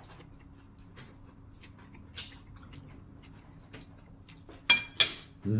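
A person eating a meal: faint wet mouth sounds and small scattered clicks, then two sharp clicks near the end.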